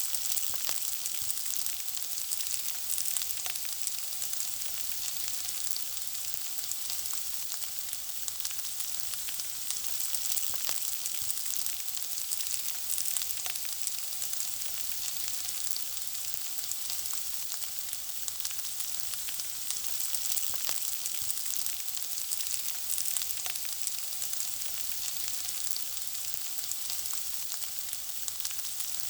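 Food frying in a pan: a steady high sizzling hiss thick with many small crackling pops.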